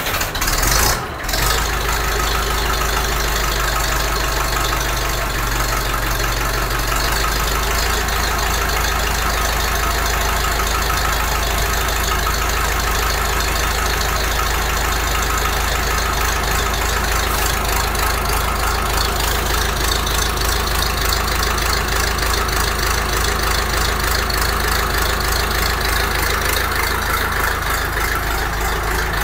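Massey Ferguson 575 tractor's four-cylinder Perkins diesel idling steadily just after a cold start at freezing temperature. The sound dips briefly about a second in, then runs evenly, with a slight change in the low engine note about seven seconds in as the idle settles.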